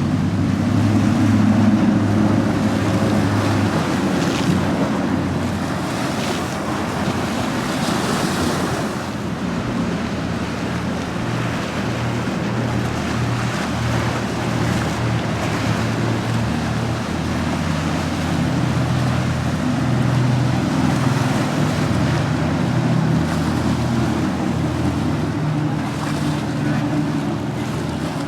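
Motorboat engines running as boats go past, a steady low engine note under the wash of waves and surf, with wind buffeting the microphone.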